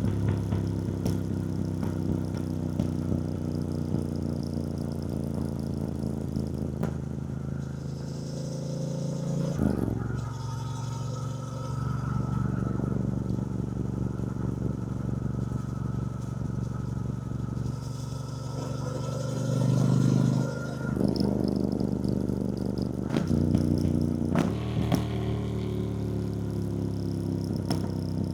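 2024 Triumph Bonneville T120's 1200 cc parallel-twin engine running under way, heard from the rider's seat, with sudden drops in engine note about 10 seconds in and again near 23 seconds, like gear changes, and a brief louder burst of throttle around 20 seconds.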